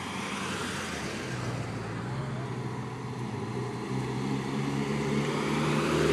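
Car engines and exhausts running as cars drive slowly past one after another. The engine note grows steadily louder as a second car approaches and passes close near the end.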